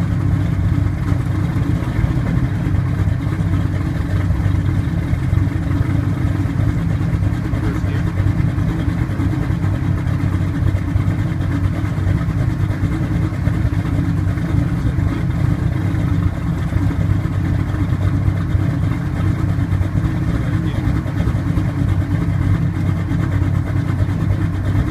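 Turbocharged third-generation Chevrolet Camaro IROC engine idling steadily on its first startup with a newly fitted 4L80 transmission.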